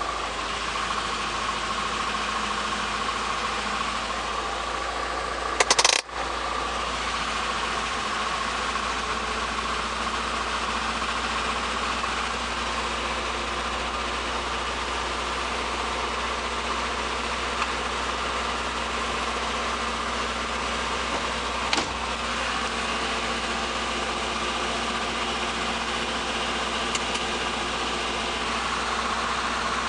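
1973 Opel GT's four-cylinder engine idling steadily after a cold start. A brief loud noise comes about six seconds in, and a faint click later on.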